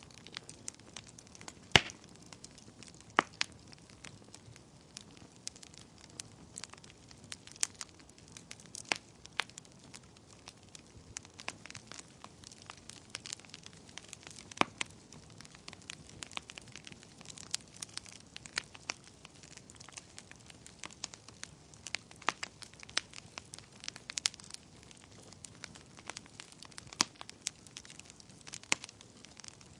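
Wood fire burning in a fireplace: irregular sharp crackles and pops of burning logs over a soft steady hiss, with a few louder pops about two and three seconds in.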